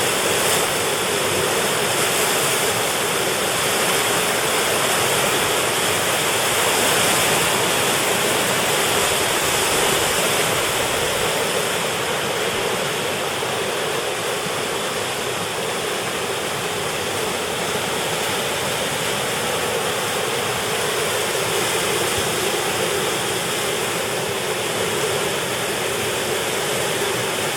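Whitewater rapids of the Kananaskis River rushing steadily, an even, unbroken wash of water noise.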